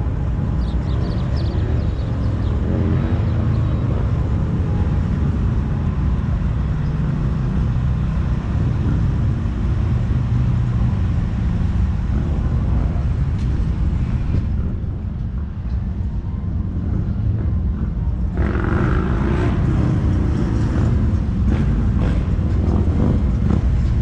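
Motorcycle engines running at low speed with a steady low rumble. The rumble eases for a few seconds past the middle, then picks up again.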